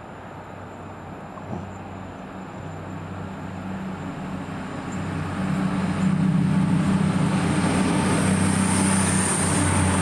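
Diesel train approaching, its engine drone growing steadily louder, with a high thin whine coming in near the end.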